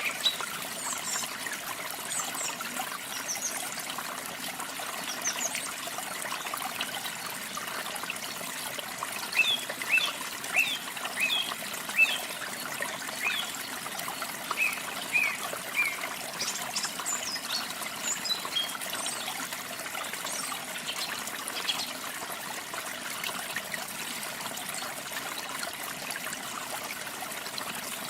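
Small waterfall splashing and trickling steadily, with songbirds chirping over it in short high-pitched phrases, busiest in two spells around the middle.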